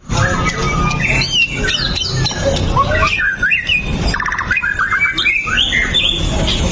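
White-rumped shama (murai batu) singing loudly and continuously: a rapid, varied run of whistles, rattling trills and harsh chattering notes.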